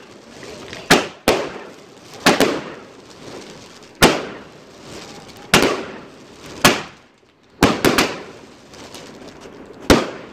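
Consumer firework barrage (cake) firing: about a dozen sharp bangs at irregular intervals of roughly half a second to two seconds, some in quick pairs and a cluster of three near the middle, each trailing off in an echoing decay.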